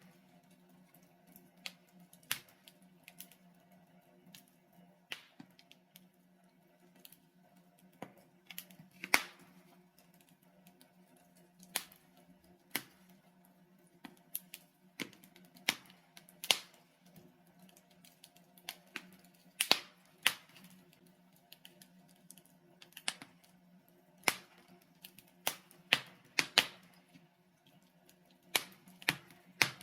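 Wood fire of burning logs crackling in a fireplace: irregular sharp pops and snaps, sometimes a quick cluster of two or three, over a faint steady low hum.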